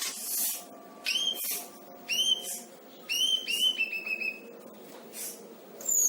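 A songbird sold as 'selendang biru' singing lively, full song with mimicked phrases: sharp, whistled chirps, several in quick succession, interleaved with short hissing notes in an irregular pattern.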